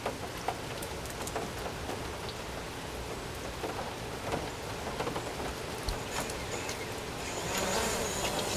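Rain pattering on surfaces, with scattered drops, under the buzz of a DJI Mavic Pro quadcopter's propellers during takeoff. Near the end a steady high whine grows louder.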